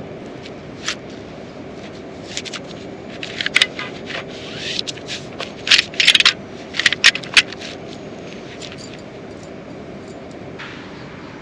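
Irregular sharp clicks, clinks and scrapes of objects being handled, thickest through the middle, over a steady background noise.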